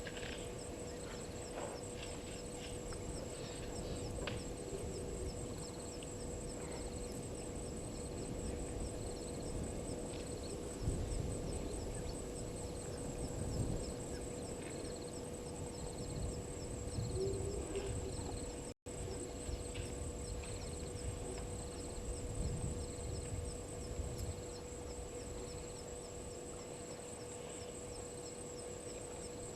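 Bush ambience of insects: a steady high buzzing drone with a short call repeating about once or twice a second. A steady low hum and gusty wind rumble on the microphone sit beneath it, and the sound cuts out for an instant about two-thirds through.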